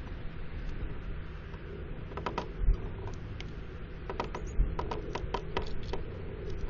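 Small birds pecking and scrabbling on a window bird feeder: a cluster of light, sharp taps about two seconds in and a quicker run of taps from about four to six seconds, over a low steady rumble.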